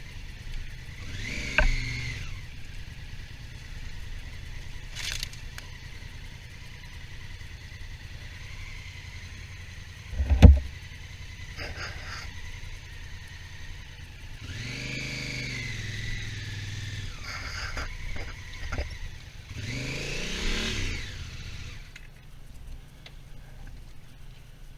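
Honda Africa Twin motorcycle on the move: a steady low engine rumble, with three louder swells of engine sound whose pitch rises and falls, and one sharp knock about ten seconds in.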